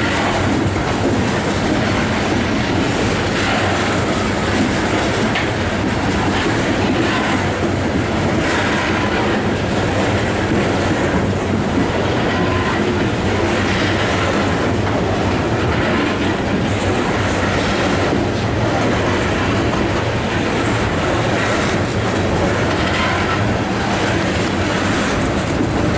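Coal hopper cars of a freight train rolling past on the rails, their steel wheels giving a steady clatter and rumble.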